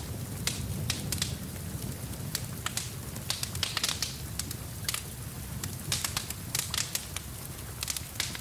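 Wood fire crackling and popping in irregular sharp snaps over a steady low rumble of the flames, with rain falling as a faint hiss.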